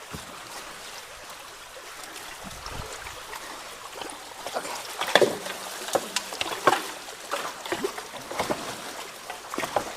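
Steady rush of water, joined about halfway through by irregular splashes and knocks as debris and boards are worked loose at a clogged culvert.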